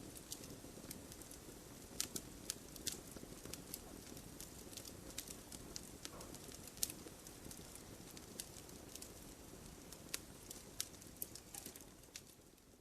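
Wood campfire burning: a steady low rush of flame with irregular sharp crackles and pops. It fades out near the end.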